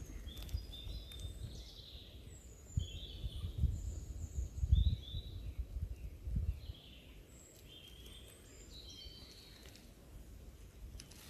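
Small birds chirping and singing, short high notes at different pitches following one another. A few low thuds come in the middle.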